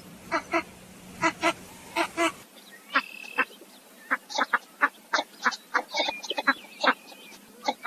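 Ducks calling: repeated short quacks in pairs, then a change to a busier stretch of many quick overlapping calls with a few thin whistled notes mixed in.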